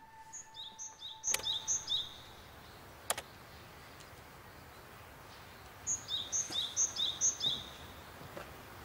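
A small songbird singing a repeated two-note phrase, a high note then a lower one, in two runs of about four phrases each, with a couple of sharp clicks between them.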